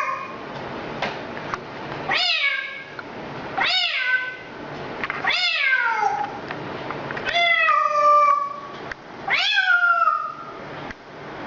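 Repeated meows: five drawn-out calls about two seconds apart, each starting high and falling in pitch.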